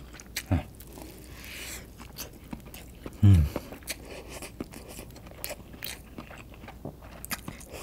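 Close-up open-mouthed chewing of cup-noodle fried rice: wet smacking and crunchy clicks of the crisp rice and noodle bits. About half a second in, and again just past three seconds, comes a short low hum that falls in pitch; the second is the loudest sound.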